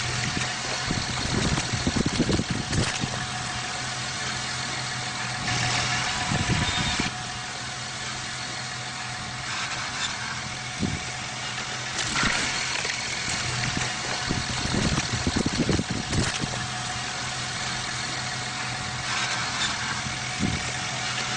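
Tractor engine running steadily, with irregular loud knocks and clattering bangs over it.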